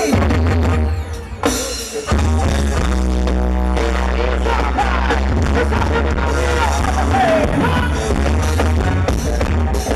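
Live band playing a pop song through a loud PA. The first two seconds are broken up by sharp hits, then the full band comes in with a steady heavy bass.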